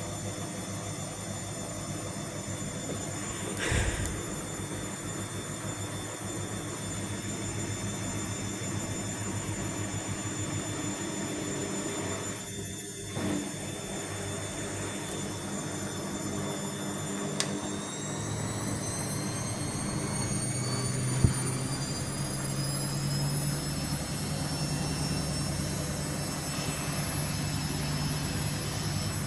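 Vestel CM8710 washing machine spinning, shaking as the drum turns, with a steady motor whine that starts rising in pitch a little past halfway as the spin speeds up. A few short knocks come through, one sharp one about three-quarters through.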